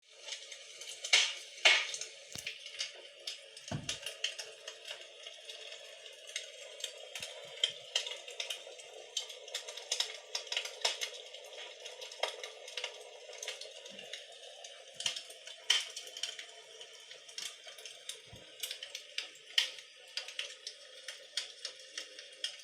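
Crackling log-fire sound played by an electric imitation fireplace's built-in sound unit: irregular pops and snaps over a steady hiss, with two louder pops near the start.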